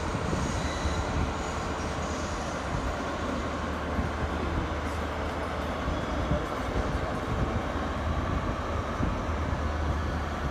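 Passenger train running past on the main line: a steady rumble of wheels on rail, with a faint high ringing in the first second.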